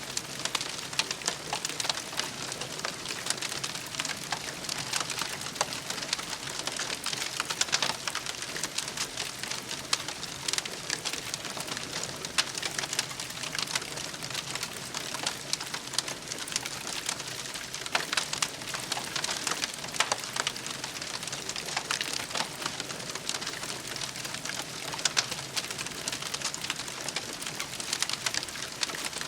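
Wood campfire crackling steadily: a continuous mass of small irregular snaps, with a few louder pops standing out.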